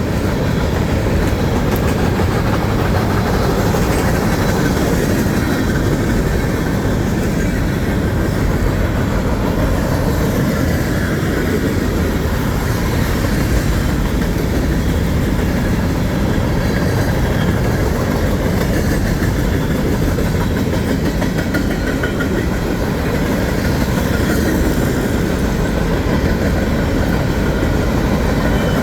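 A train rolling past, its wheels running on the rails in a loud, steady noise that holds the whole time.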